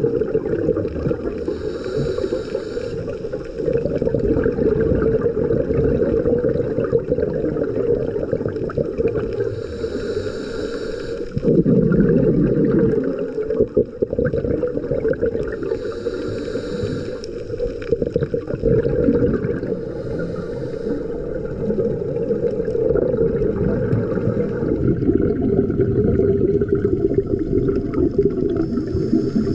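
Underwater recording of a scuba diver breathing: a steady low rush of water and bubbles, with a short hiss from the regulator every several seconds. A louder low bubbling surge about twelve seconds in marks an exhalation.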